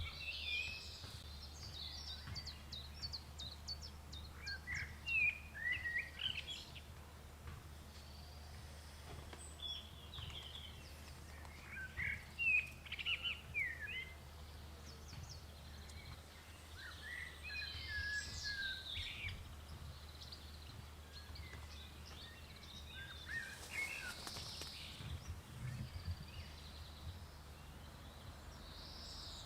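Small birds chirping and singing in short clusters of calls and trills, over a steady low hum.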